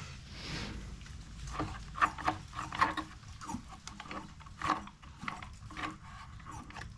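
Irregular light clicks, knocks and rubbing as the plastic housing and parts of an opened Echo PB-265L backpack blower are handled and inspected by hand.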